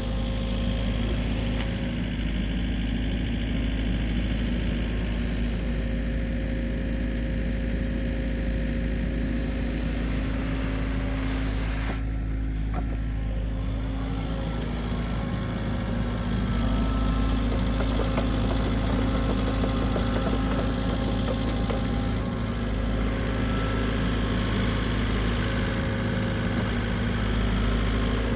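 Engine of a snow-clearing machine running steadily with a constant low hum, the higher noise dropping away briefly about twelve seconds in.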